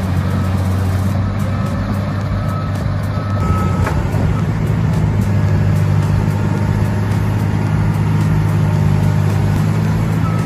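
Heavy machine engine running steadily under load, louder from about four seconds in, with a reversing alarm beeping about once a second.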